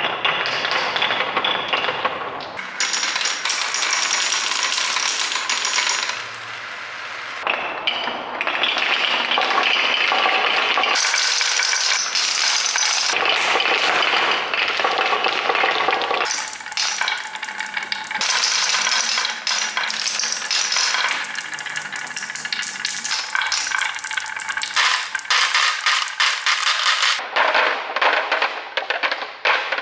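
Marbles rolling and clattering along a marble run: a dense stream of clicks, clinks and rattles whose character changes every few seconds.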